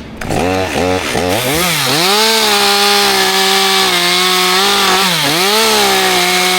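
Two-stroke chainsaw revved up and down several times, then held at high revs, with a brief dip in engine speed about five seconds in before it settles back to a steady, slightly lower pitch.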